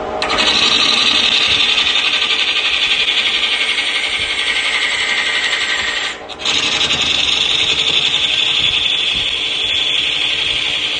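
Hand-held turning tool cutting into redwood spinning on a wood lathe: a steady, loud scraping hiss that drops out briefly about six seconds in.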